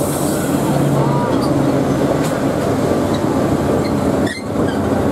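Narrow-gauge ZDM diesel locomotive running past at close range, its engine noise giving way to the steady rumble of its coaches rolling by on the track.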